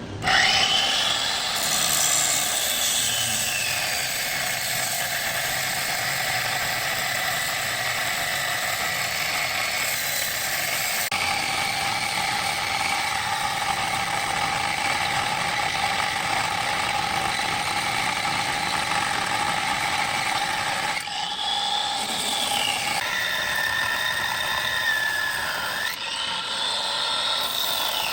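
Metal lathe running: a steady whine of several tones over mechanical noise. Its pitch glides down over the first few seconds, then rises and falls again twice near the end.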